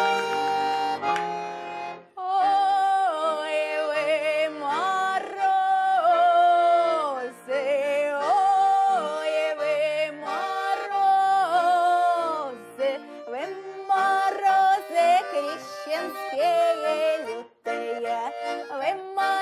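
A slow Russian folk song: an accordion plays alone for about two seconds, then a woman's voice comes in singing long, drawn-out notes with vibrato and slides between pitches over the accordion's sustained chords.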